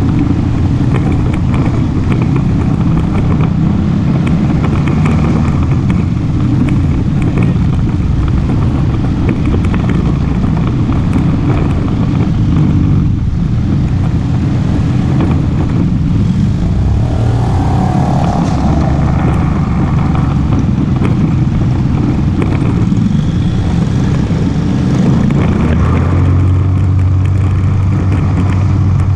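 ATV engine running while riding, loud and continuous with its pitch shifting as the throttle changes. About three-quarters of the way through, it settles into a steadier low hum.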